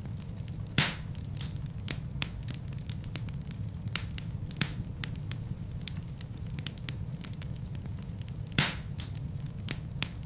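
Wood fire burning in a fireplace: a steady low rumble of flames with frequent sharp crackles, and two louder pops, one about a second in and one near the end.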